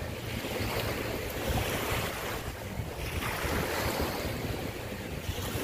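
Wind buffeting the microphone at the seaside, a steady rushing noise with a fluttering low rumble, with the wash of sea waves beneath it.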